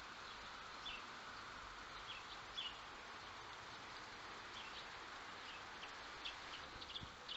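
Small birds chirping in short scattered calls, more often in the second half, over a steady faint hiss of outdoor background noise.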